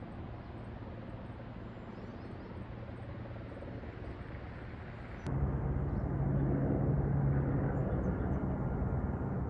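Helicopter heard at a distance, a steady drone with a low hum. About halfway through it jumps suddenly louder, with a stronger low hum.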